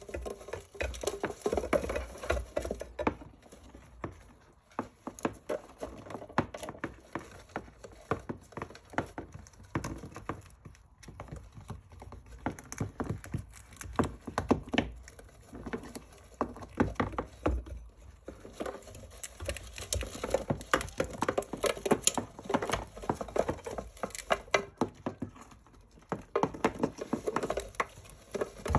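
Hamsters scuffling: a dense, irregular patter of small clicks and scratches.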